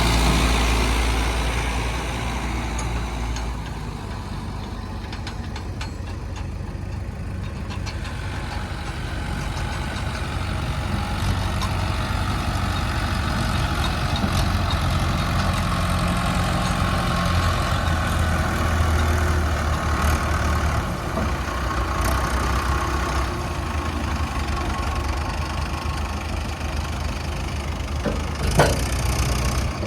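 Diesel engines of a JCB 3DX Xtra backhoe loader and a tractor running while mud is loaded. The engine sound drops a few seconds in and builds up again, and a couple of sharp knocks come near the end.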